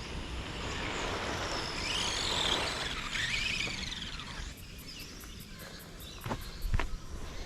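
A Schumacher Bosscat electric RC buggy passes by on a dirt track. Its motor and gear whine rise and then fall in pitch, over a rush of tyre noise. Two sharp knocks follow near the end.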